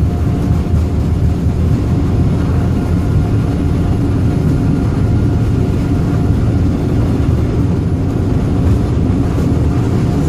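Boeing 787 jet engines under takeoff thrust heard from inside the passenger cabin: a loud, steady rumble with rushing air noise.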